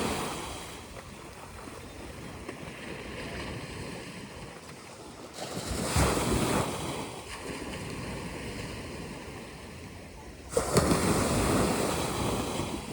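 Sea waves washing onto a beach, a steady rush with two bigger waves breaking, about five and ten seconds in.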